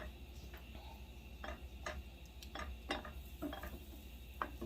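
A utensil stirring a creamy cheese and tomato sauce in a pan, clinking irregularly against the pan about twice a second.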